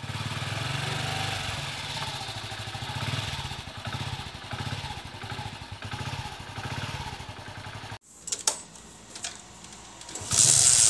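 Hero Passion Pro motorcycle's single-cylinder engine running, its level rising and falling, until it cuts off abruptly about eight seconds in. A few sharp clicks follow, then a loud hiss starts near the end.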